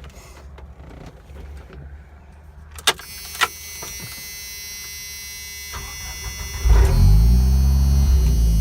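Two sharp clicks, like a car door or latch, then a vehicle's engine starting about two-thirds of the way in, rising in pitch and settling into a steady run.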